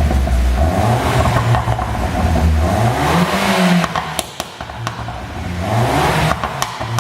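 2011 Peugeot RCZ engine revved up twice on the dyno, the pitch climbing and then dropping off each time. After each lift-off come a few sharp pops and cracks from the exhaust: the overrun pops of its pop-and-bang ECU tune.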